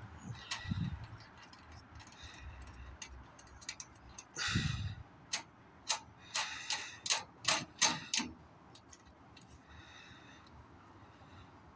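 Sharp clicks and knocks of hard machine parts being handled and fitted, with a short rustling burst about four and a half seconds in and a quick run of clicks over the next few seconds.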